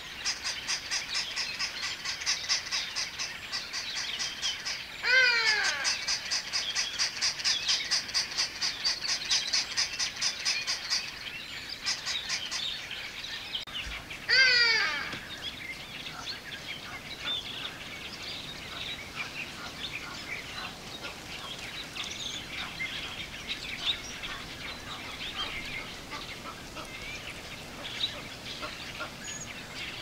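Wild birds calling: a rapid, evenly repeated high-pitched chatter for roughly the first eleven seconds, cut across twice, about 5 and 14 seconds in, by a loud run of notes falling in pitch, then scattered chirps from several birds.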